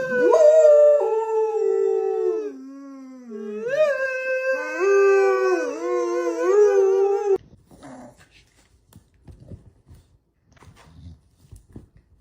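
A dog howling: one long, wavering howl that sinks low about a third of the way in, then rises and wobbles again, lasting about seven seconds before cutting off suddenly. Faint light taps follow.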